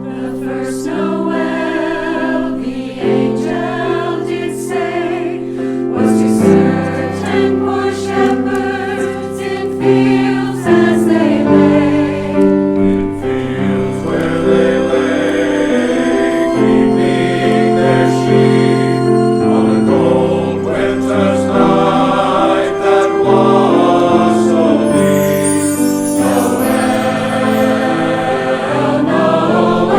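Church choir singing in sustained chords over a low instrumental accompaniment.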